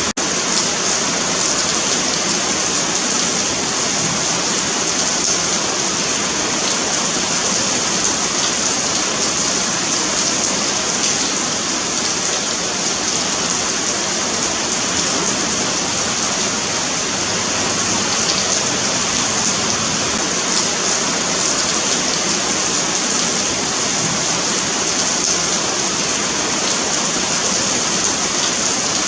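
Steady rain falling on a paved sidewalk: a continuous hiss of drops on pavement, even throughout with no distinct splashes standing out.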